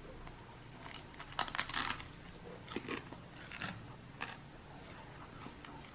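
Crunching as crisp air-fried frozen dumplings are bitten and chewed: a cluster of crackly crunches about a second in, then a few single crunches.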